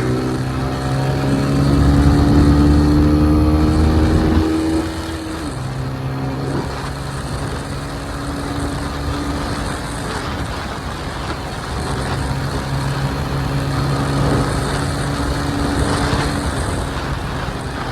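A motor vehicle's engine running under acceleration: its pitch climbs slowly for about four seconds, then drops sharply and settles to a steadier, quieter drone that rises slightly again later.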